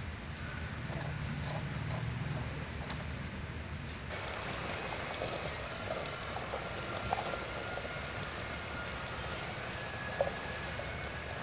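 Curry bubbling softly in a pot over a wood fire. A bird then gives a short loud trill of about seven rapid high notes, a little past the middle, followed by a couple of soft knocks.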